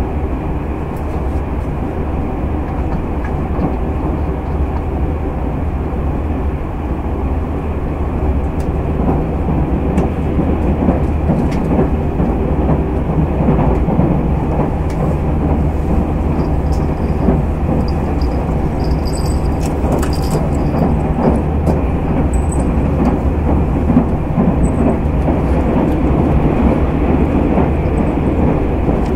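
Inside a Tobu 200 series limited-express motor car, whose bogies and traction motors were reused from a 1720 series DRC car, running along the line. A steady low rumble of wheels and motors, with clicks of the wheels over rail joints, grows a little louder about eight seconds in.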